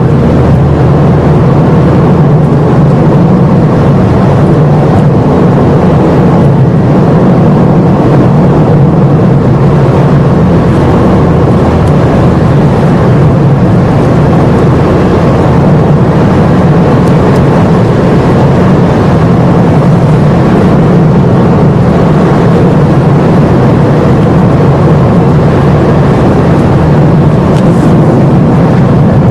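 A car being driven, heard from inside: a steady, loud mix of engine and road noise with no change in pitch.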